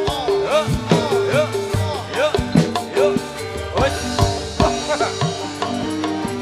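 Javanese gamelan playing an instrumental passage for a jathilan dance: repeated struck metallophone notes over hand-drum strokes, some of which bend up and down in pitch.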